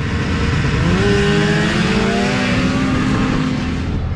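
Racing snowmobile engine revving hard, its pitch climbing over the first couple of seconds and then holding high, over a steady hiss.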